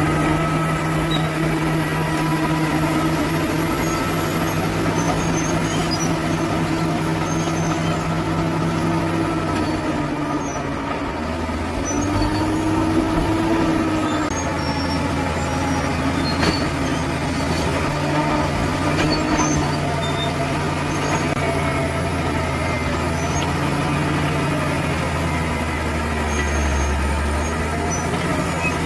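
Bulldozer's diesel engine running steadily under work, its pitch dipping about ten seconds in and rising again.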